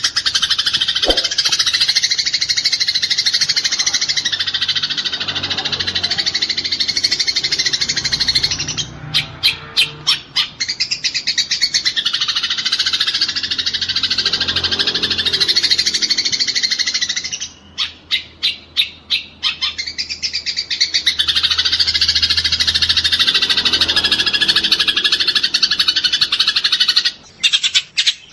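Eurasian tree sparrows chattering in a dense, rapid, unbroken stream of chirps, the excited calling of sparrows fighting. It is broken a few times by short runs of separate sharp chirps.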